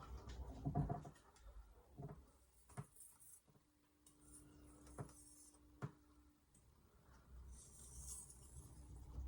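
Faint handling noises while a kitchen knife is checked between sharpening passes: a few light taps and short soft rubbing sounds. A faint steady hum runs through the middle.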